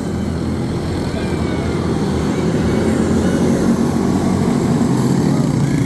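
Racing karts' small single-cylinder Briggs & Stratton Animal engines running at speed, a steady engine drone with faint rising and falling pitch as they pass.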